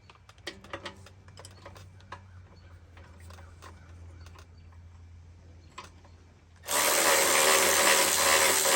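Faint clicks and knocks of parts being handled, then about seven seconds in a power drill starts and runs steadily and loudly as the engine is bolted down to the wood splitter.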